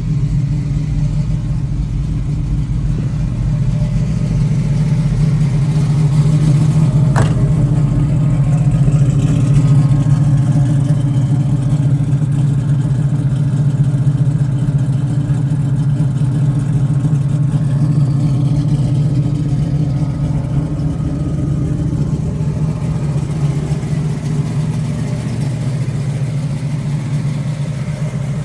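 1974 Plymouth Cuda's 340 V8 engine running steadily at idle, with a single sharp click about seven seconds in.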